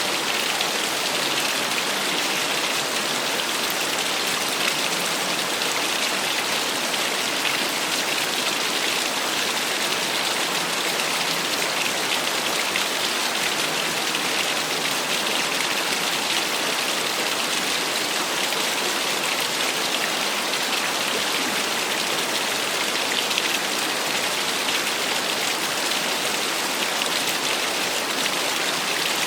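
Small waterfall splashing in a steady, unbroken rush of falling water, mostly hiss and spatter with little low rumble.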